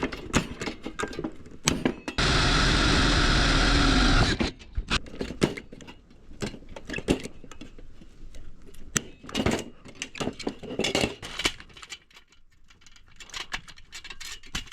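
Repeated clicks and clacks of a hand pop rivet gun being squeezed and setting rivets in aluminium edging. A loud, steady machine whirr runs for about two seconds near the start.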